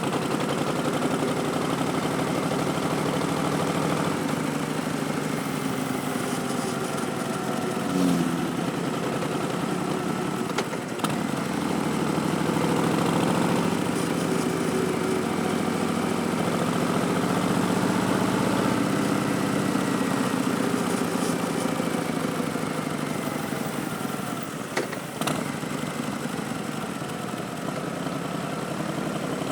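2019 Harley-Davidson Street Bob's Milwaukee-Eight V-twin running through Vance & Hines Twin Slash slip-on mufflers, its pitch rising and falling gently with throttle and speed. A few brief knocks break in along the way.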